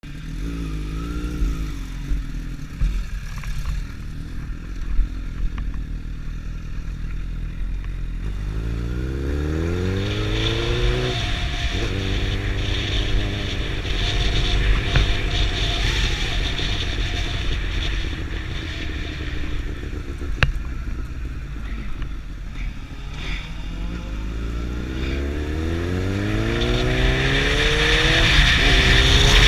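Superbike engine accelerating hard, its pitch climbing and briefly dropping at a gear change, then holding steady before climbing again near the end, over a constant rushing noise.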